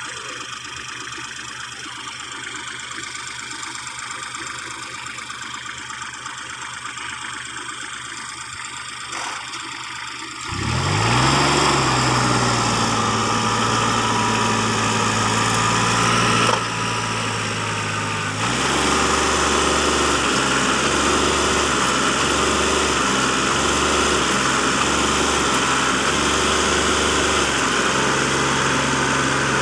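Heavy machine engines running: a steady engine, then about ten seconds in a louder engine revs up sharply and holds a steady note. About two-thirds of the way through, the note changes to a regular rise and fall that pulses every second or two.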